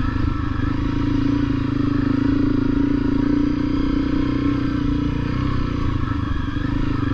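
Honda CRF250L's single-cylinder four-stroke engine running at a steady speed while the bike is ridden.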